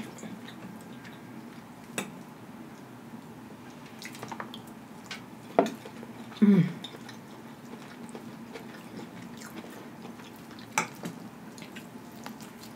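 Close-up eating sounds: quiet chewing and mouth noises, with a few sharp clicks about two, five and a half and eleven seconds in, and a brief low hum falling in pitch about six and a half seconds in.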